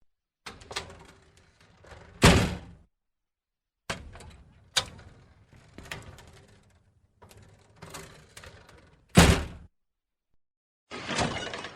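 A door being handled and shut: rattling clicks of the handle and latch, each run ending in a heavy thud, three times (about 2, 5 and 9 seconds in). Near the end a brief rushing, scraping noise starts.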